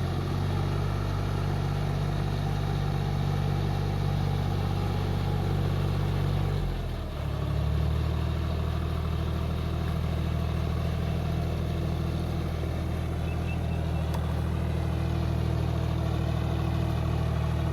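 Tractor's diesel engine running steadily, its pitch dipping briefly about seven seconds in before picking up again.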